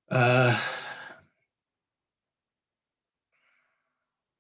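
A man's voiced sigh, held for about a second.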